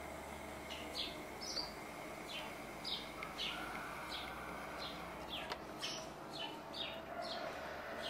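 Small birds chirping: short, high, slightly falling chirps about twice a second, over a steady low hiss.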